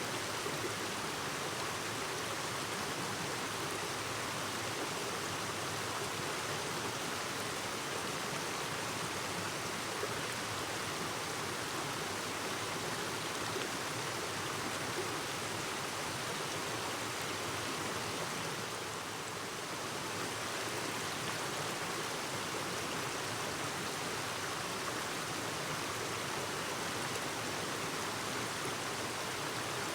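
A clear river stream babbling steadily, an even rush of water with a slight softening about two-thirds of the way through.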